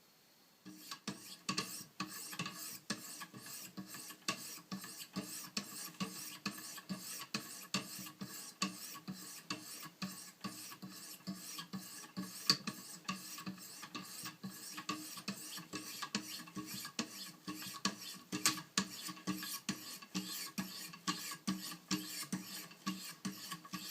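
Wicked Edge guided knife sharpener: diamond stones rasping along an Opinel carbon-steel blade in quick, even back-and-forth strokes, about three a second, starting just under a second in.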